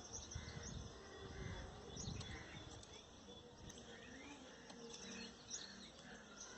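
Faint chirps and calls of several small birds, scattered and overlapping. A low rumble runs under them for about the first two seconds.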